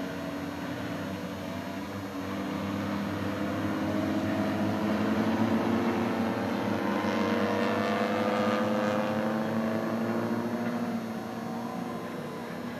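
Engines of several skid-plate race cars revving as they slide around the course, with pitches rising and falling against one another. The engines swell louder about two seconds in and ease back near the end.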